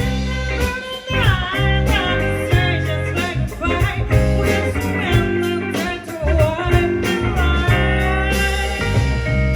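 A band playing a song live, a singer over guitar.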